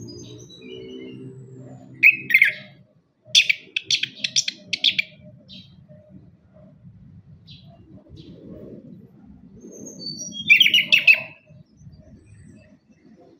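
Chestnut-capped thrush (anis kembang) singing: a short burst of high chirping notes a couple of seconds in, then a quick run of rapid notes, and another burst near the end, over a faint low hum.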